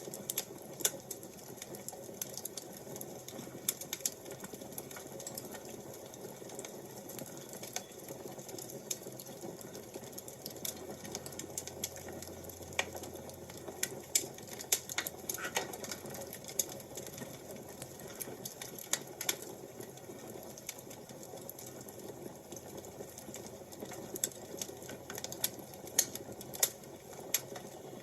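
Wood fire crackling: a steady low hiss with irregular sharp pops and snaps.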